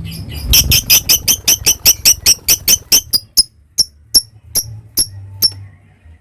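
A lovebird giving a long chattering call of sharp, high chirps, about five a second, that slows to single spaced chirps after about three seconds and stops a little before the end.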